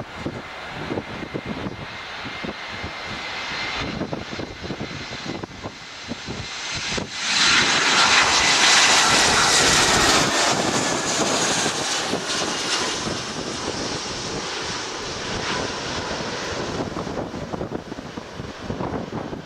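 Airbus A320 jet engines during a landing: a steady jet noise with a high whine that slowly falls in pitch. It jumps sharply louder about seven seconds in, stays loud for several seconds, then slowly eases off, with gusty wind buffeting the microphone.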